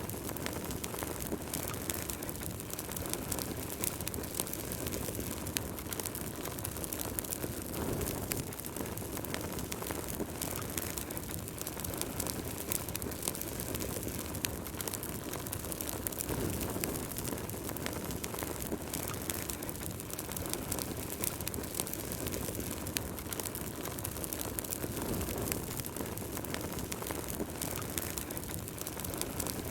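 Wood fire burning in a fireplace: a steady low rush of flame with frequent small, sharp crackles and pops from the burning logs.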